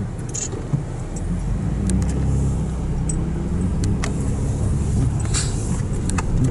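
Inside a moving car: steady low road and engine rumble that gets a little louder about a second and a half in, with scattered small rattles and clicks.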